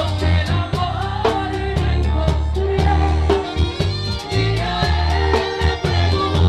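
Live bachata band playing a passage without transcribed vocals: a strong bass line under guitar and a steady beat of sharp percussion strokes.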